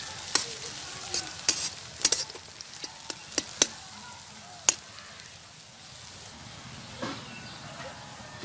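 Sliced onions sizzling in hot oil in a large metal kadai, stirred with a metal spatula that clanks and scrapes against the pan in sharp strikes through about the first five seconds. After that only the steady sizzle of the frying onions is left.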